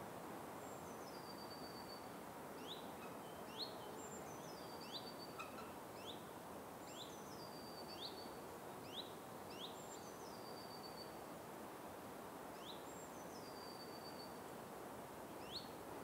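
Birds calling over a steady background hiss. One call is a whistle that steps down in pitch, repeated about every three seconds. Between those calls come short, sharp rising chirps, about one a second.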